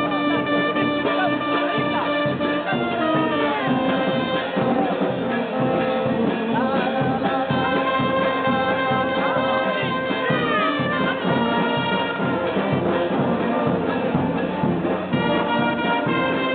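Bersaglieri fanfare, a brass band of trumpets and trombones, playing a lively march with a steady beat.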